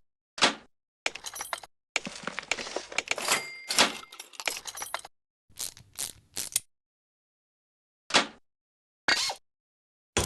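Separate knocks and clinks of hand tools and metal parts, with a longer stretch of clattering in the first half and single knocks further on.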